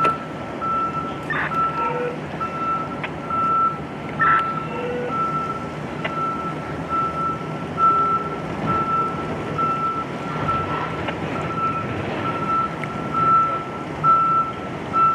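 Truck's reversing alarm beeping in an even rhythm, about one and a half beeps a second, over a running engine: the truck is backing up.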